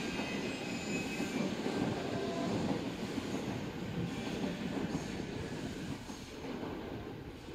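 Electric train noise at a station platform: a steady rumble that fades slowly, with faint high squealing tones that die away in the first second or so.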